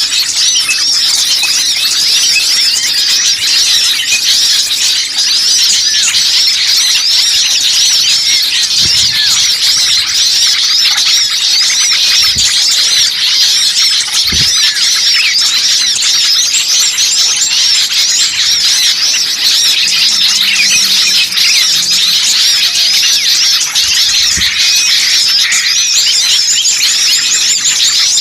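A dense, unbroken chorus of many small songbirds chirping and twittering at high pitch, many calls overlapping at once. It is a bird-lure recording of a noisy flock of small birds, played to draw wild birds in.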